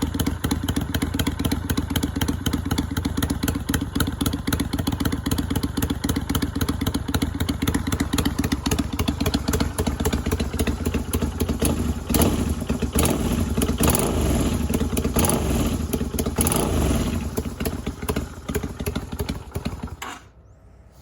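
Yamaha Virago 250's V-twin engine running through slash-cut mufflers: a steady idle, then a few throttle blips in the second half, before the sound cuts off near the end.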